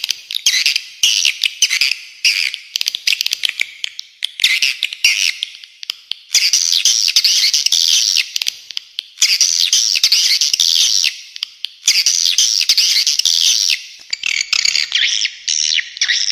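Recorded spiderhunter and swiftlet calls: dense, rapid, harsh high-pitched chirping in bursts of one to two seconds, with short breaks between them.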